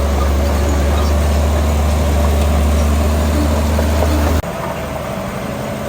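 Heavy diesel engine of earth-moving machinery running steadily with a deep, low rumble. About four seconds in, the sound changes abruptly and becomes somewhat quieter.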